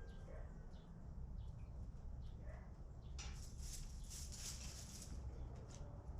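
Chickens in a coop: a few faint, short soft calls over a steady low hum, with a burst of scratchy rustling about three seconds in that lasts around two seconds.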